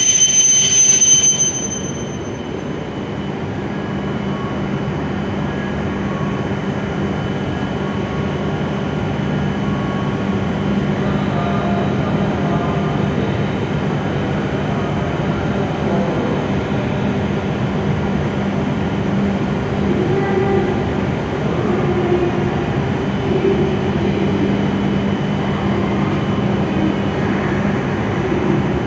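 E7 series Shinkansen train at the platform: a high whine cuts off about a second and a half in. After that a steady low hum and running noise of the train carries on.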